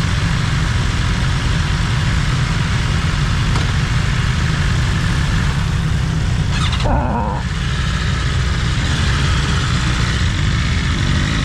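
BMW S1000RR's 999 cc inline-four running steadily while being ridden, with wind noise rushing over the microphone. There is a brief lull in the wind noise about seven seconds in.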